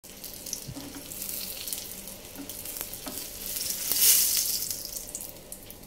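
Eggplant omelette frying in shallow oil in a nonstick pan, a steady sizzle. The sizzle swells about four seconds in as a spatula slides under the omelette to lift it, with a few light clicks of the spatula against the pan.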